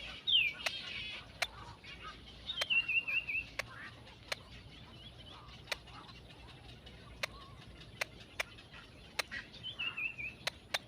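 A small bird calling in short, wavering chirps that slide downward, three phrases in all, with sharp ticking clicks scattered between them.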